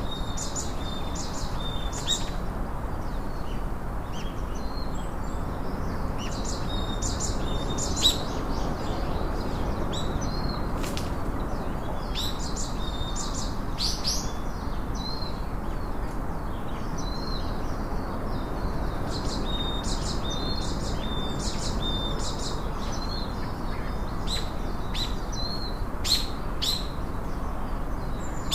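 Small songbirds chirping and twittering in short high-pitched bursts, in clusters with brief pauses, over a steady background hiss.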